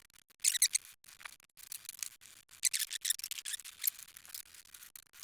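A cloth-wrapped putty knife scraping and rubbing old weather-stripping adhesive off a camper compartment door, in a series of short, irregular strokes.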